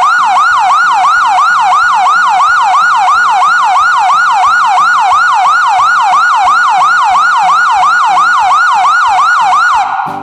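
Police yelp siren wailing in fast, even sweeps, about three a second, cutting off just before the end. Light children's music plays faintly underneath.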